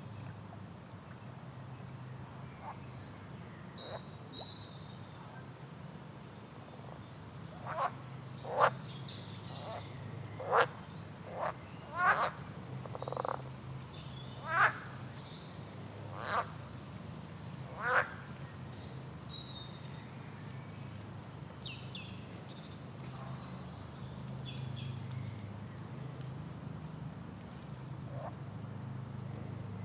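Frogs croaking, a run of short sharp calls between about 8 and 18 seconds in, over birds singing high, falling phrases every few seconds and a steady low background hum.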